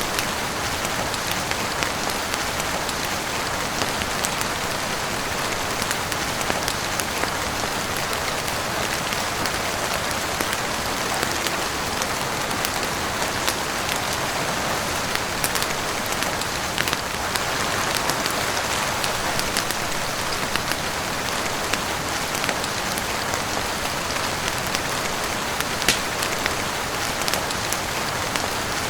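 Steady heavy rain falling on a roof, an even hiss, with a wood fire crackling in small scattered pops and ticks throughout.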